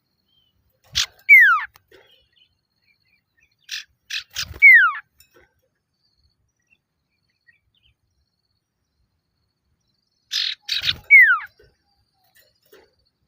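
Male common iora calling to a rival: three phrases a few seconds apart, each a couple of short harsh notes followed by a loud whistle falling in pitch.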